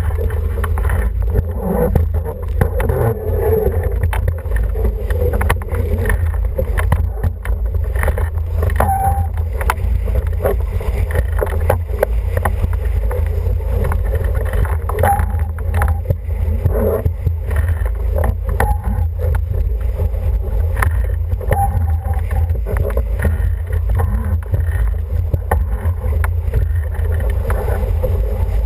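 Wind rumbling steadily on the microphone aboard an International 14 racing dinghy under sail, over rushing water and many short knocks and splashes against the hull.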